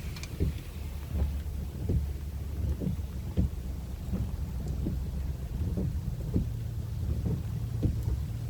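Tropical-storm wind buffeting the microphone, a steady low rumble with irregular dull thumps about once or twice a second.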